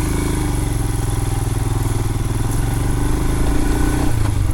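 Royal Enfield Himalayan's 411 cc single-cylinder engine running steadily at low revs, with its note shifting slightly about four seconds in.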